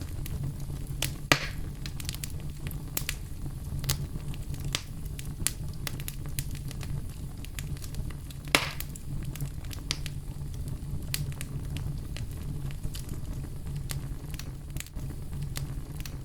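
Wood fire in a fireplace crackling, with a steady low rumble beneath many small snaps and two louder pops, one about a second in and one past the middle.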